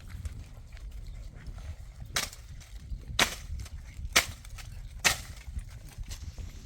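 Four sharp knocks or strikes, about one a second, over a steady low rumble.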